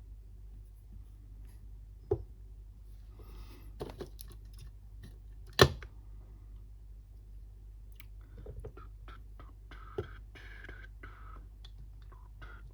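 Small tools and parts handled on a workbench: scattered clicks and knocks, the sharpest about halfway through, with short stretches of scraping and rustling over a steady low hum.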